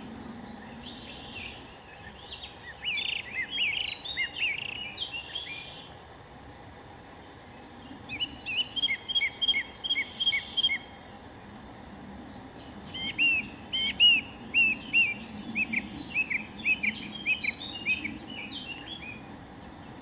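A songbird singing in three bouts of quick, high chirping notes, the middle bout an evenly repeated run of notes, over a steady low background noise.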